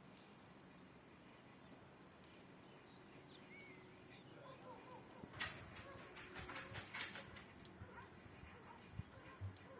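Quiet outdoor ambience with a faint bird chirp and, about halfway through, a run of sharp taps and clicks, followed by two soft low knocks near the end.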